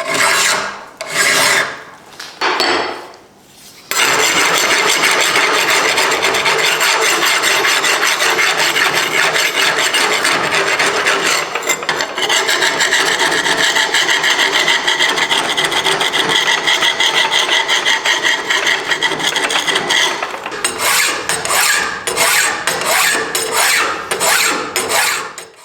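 File scraping on the metal of the anvil: a few separate strokes at first, then a long unbroken stretch of rapid rasping, then quick separate strokes again near the end before it stops.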